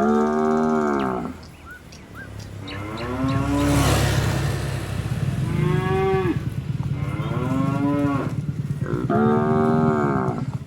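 Cattle mooing: about five long, drawn-out moos in turn, at slightly different pitches, from more than one cow.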